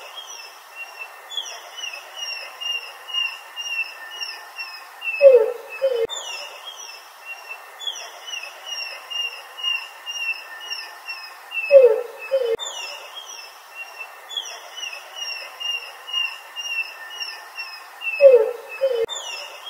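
Birds calling: a loud two-note low call about every six and a half seconds, over quick high chirping. The pattern repeats exactly each time, like a looped recording.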